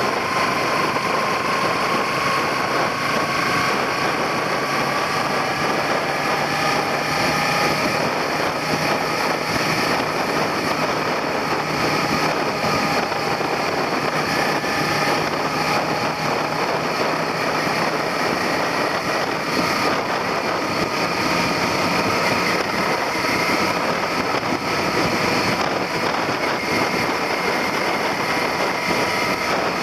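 Suzuki SV400 90-degree V-twin engine running under way, its note drifting slowly up and down, over a steady rushing noise of wind on the handlebar-mounted camera.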